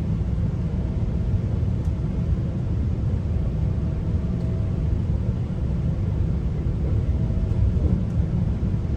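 GO commuter train in motion: a steady low rumble of wheels running on the rails. A faint thin whine comes and goes a few times.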